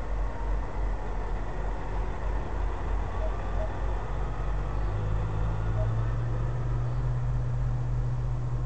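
Diesel truck engine running at idle with a steady low hum. About five seconds in, a second engine tone comes in and holds, as another truck's engine draws near.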